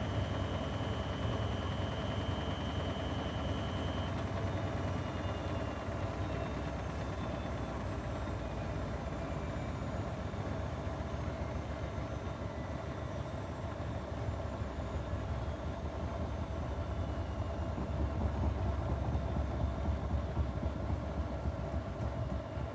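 Grundig washing machine running, its drum motor whining and slowly falling in pitch under a steady low rumble. The rumble grows louder near the end, then drops off suddenly.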